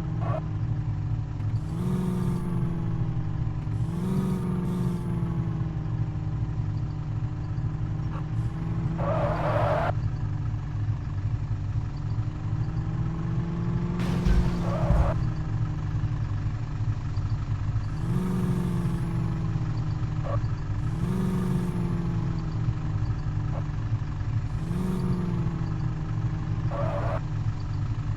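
Truck engine running steadily, rising briefly in pitch about six times as it is revved, with a few short bursts of hiss.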